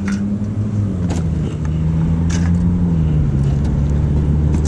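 A car engine running close by: a steady hum that grows louder about two seconds in and drops slightly in pitch, with a few sharp clicks over it.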